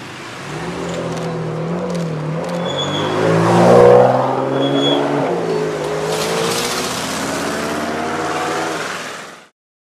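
Ferrari Enzo's V12 engine pulling away and driving past, loudest as it passes about four seconds in, then rising in pitch as it accelerates off down the road. The sound cuts off suddenly near the end.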